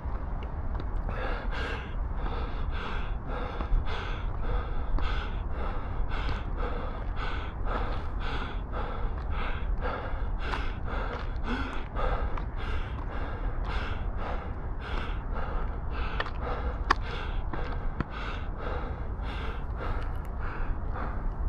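A runner's hard, rhythmic breathing at threshold effort, puffing about two to three times a second in time with the stride, over a steady low rumble of wind on the microphone.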